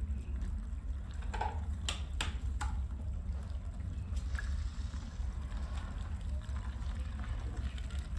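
Water splashing and trickling as a rug is washed, over a steady low machine rumble, with a few sharp knocks about two seconds in.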